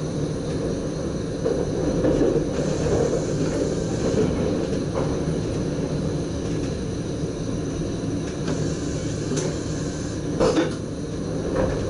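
NS SGM Sprinter electric multiple unit running at speed, heard from its driver's cab: a steady rumble with a few clicks and one sharper knock near the end.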